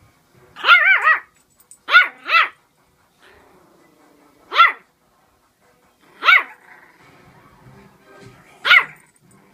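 A dog barking: about seven high, arching barks, two quick pairs in the first couple of seconds and then single barks every couple of seconds.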